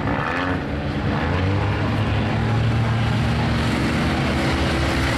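Race car engines running at speed, a steady drone with a slight rise in pitch as the cars pass.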